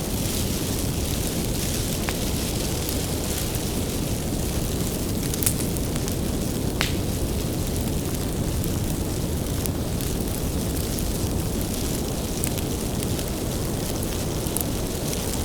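Bonfire burning with a steady low rumble, crackling with sharp pops from the firewood, the loudest about five and a half seconds in and again about a second later.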